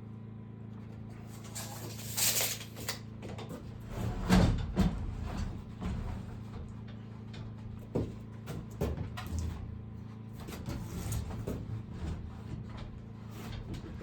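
Scattered knocks and scrapes of materials or tools being handled, the loudest about 4 seconds in, over a steady low hum.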